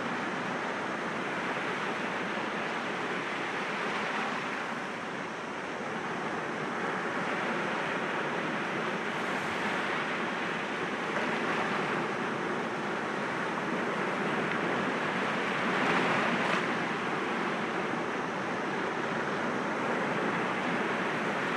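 Sea waves breaking gently against rocks: a steady rushing wash that swells and eases, dipping about five seconds in and loudest about sixteen seconds in.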